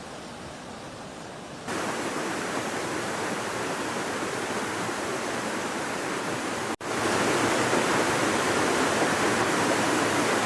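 Steady rushing water noise, like heavy rain or floodwater. It jumps louder about two seconds in, cuts out for an instant near the middle and comes back louder still, as at cuts between clips.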